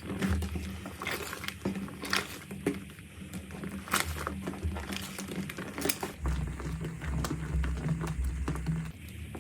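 Slime being squeezed and poked by hand, giving irregular sticky clicks and crackles, with a low rumble for a few seconds near the end.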